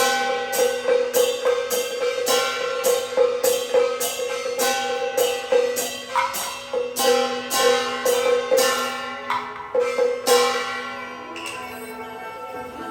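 Taiwanese Beiguan ensemble playing: sharp percussion strokes, about two a second, from clappers and drum over a steady melodic line. The percussion stops about eleven seconds in, leaving the melody alone and quieter.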